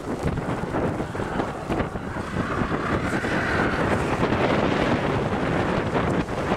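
Strong wind buffeting the microphone in a snowstorm, a continuous gusting rumble. A faint whine rises and falls about three seconds in.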